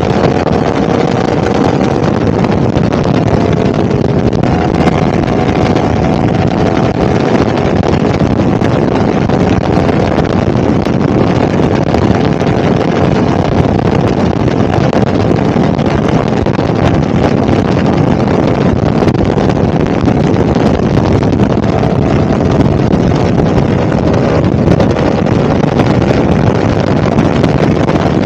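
Yamaha R1 crossplane inline-four motorcycle engine running at a steady speed, with heavy wind noise buffeting the microphone. The engine note holds nearly level, drifting only slightly in pitch.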